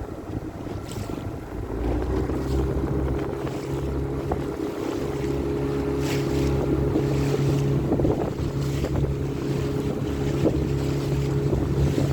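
Small hire motorboat's engine running at a steady speed, a little louder from about two seconds in, with wind buffeting the microphone and water washing past the hull.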